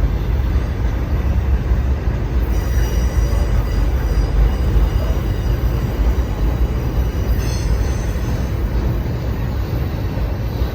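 Freight train rolling past with a steady, heavy rumble of wheels on rail. Faint high-pitched wheel squeal comes in about two and a half seconds in, and again for about a second past the middle.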